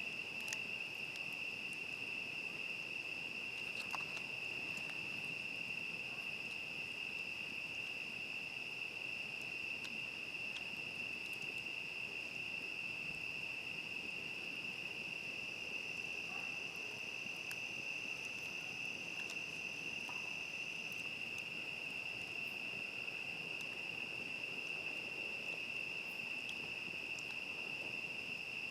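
A night chorus of crickets, a continuous high steady trill. A second, slightly higher-pitched insect joins for several seconds around the middle. Occasional faint campfire crackles sound beneath it.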